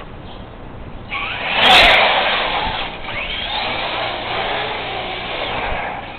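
RC truck's motor whining as the truck starts off about a second in, loudest just after, then running on with rising and falling pitch until it stops near the end.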